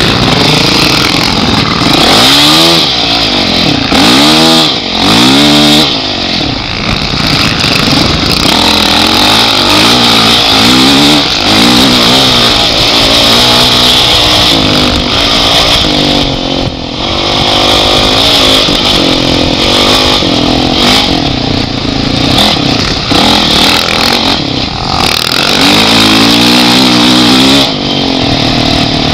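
Motorcycle engine being ridden off-road, its pitch rising and falling over and over with the throttle, with brief drops in loudness where it backs off. A steady hiss runs above it.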